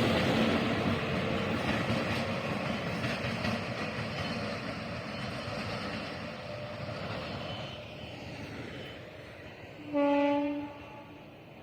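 Indian Railways train running on the track, its rumble fading steadily as it draws away. Near the end comes a single short train horn blast.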